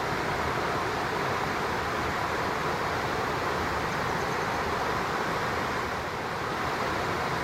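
Steady rushing of a stream flowing, an even noise with no breaks.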